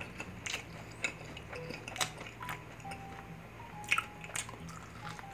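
Close-miked chewing of food eaten by hand, with irregular sharp crunches, over quiet background music with a simple melody and bass.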